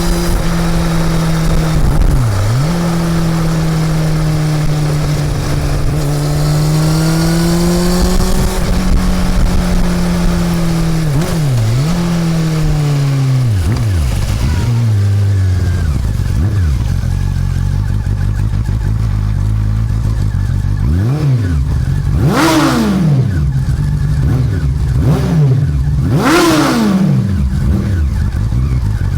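Honda CB400 Super Four's inline-four engine under way. For the first half it holds a steady pitch, dropping and climbing again several times as gears are changed. From about halfway it settles to low revs, with two sharp throttle blips near the end.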